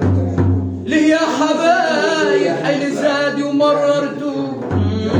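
A man singing Arabic vocal music: one long, wavering, ornamented phrase. A steady low note sounds under it at the start and again near the end.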